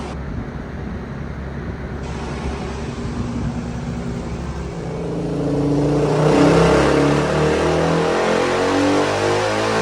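Suzuki DR-Z400's single-cylinder four-stroke engine, breathing through an MRD Z-Pro exhaust, running on a dyno. It runs steadily at first, then about five seconds in it gets louder and its pitch climbs steadily as the engine is pulled up through the revs.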